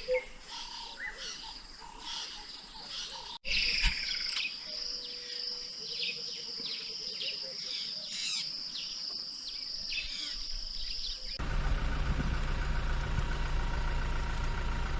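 Birds calling in the bush over a steady high-pitched insect drone, then, from about 11 seconds in, a vehicle engine idling steadily.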